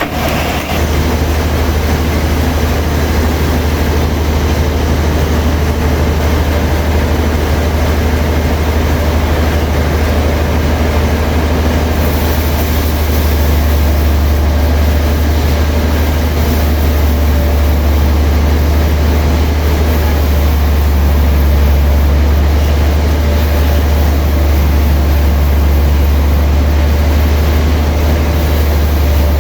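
Sawmill machinery running: a steady, loud, low engine drone that grows a little louder about halfway through.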